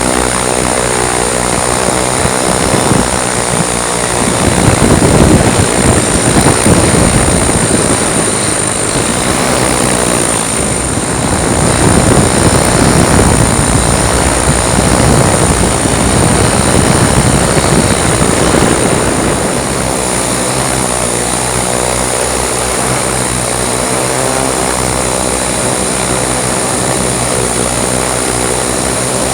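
Large X8 coaxial multirotor buzzing in flight, its eight 28-inch propellers on 135 kV motors giving a steady multi-toned drone with a thin high whine above it. From about four to nineteen seconds in, a louder, uneven rushing noise swells over the drone, then fades back.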